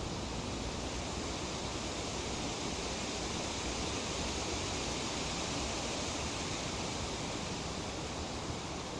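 Steady rustling of tree leaves in a light breeze, a continuous hiss that swells a little in the middle.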